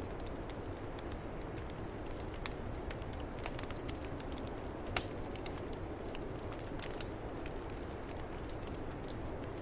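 Wood fire crackling in a fireplace, with many small scattered pops and one louder pop about halfway through, over a steady low rush of snowstorm wind.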